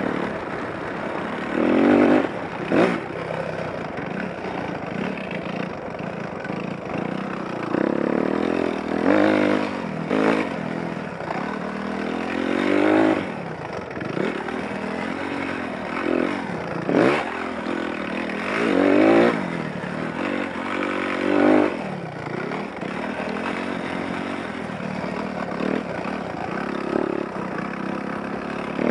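Dirt bike engine revving up and falling back again and again as it is ridden, with the loudest throttle surges about 2, 10, 13, 19 and 21 seconds in, over rattling from the bike.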